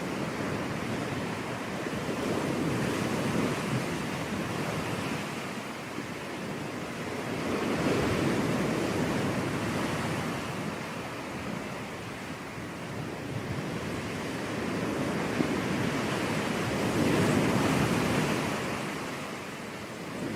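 Caribbean sea surf on a beach: a steady wash of water with three slow swells as waves break, the loudest near the end.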